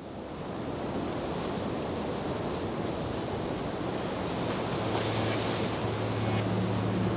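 Steady rushing hiss like heavy rain or surf, fading in from silence. A low held musical note comes in under it about two-thirds of the way through, the start of background music.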